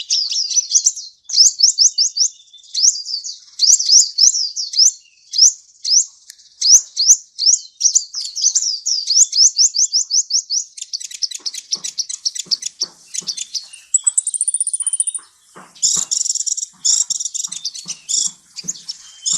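Sunbird ('kolibri') singing: a fast run of high, sharply sweeping chirps with short pauses, a brief high trill about three-quarters of the way through, and denser chattering notes near the end.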